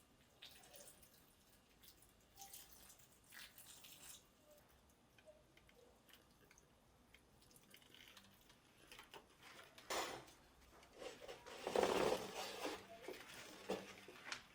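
Faint scattered handling sounds with a sharp knock, then a brief rush of water about twelve seconds in.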